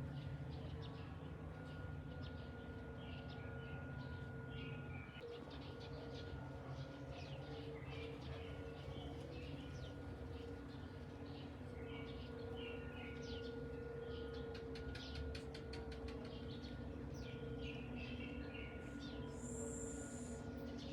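Birds chirping again and again in short calls over a steady low hum, with a short high buzz near the end.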